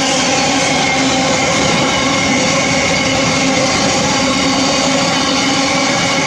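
A train running close by at the platform: a loud, steady rolling noise with several held tones, unchanging throughout.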